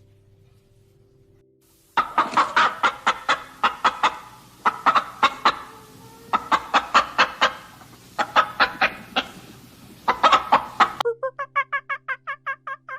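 Chicken clucking in five quick runs of sharp, rapid clucks, after about two seconds of quiet. Near the end a different bird call takes over: a fast, even run of pitched notes.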